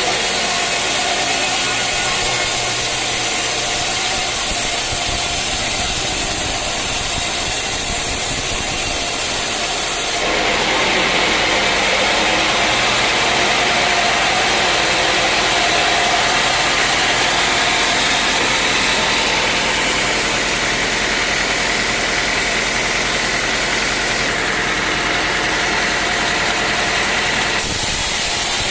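Sawmill saw running and cutting through a teak log, a loud steady machine noise. The sound changes abruptly about ten seconds in and again near the end.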